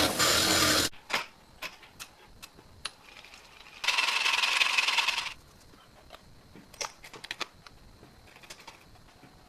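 A loud rushing tool noise cuts off suddenly about a second in. Light metallic clicks and clinks follow, broken near the middle by a second burst of rushing noise that lasts about a second and a half.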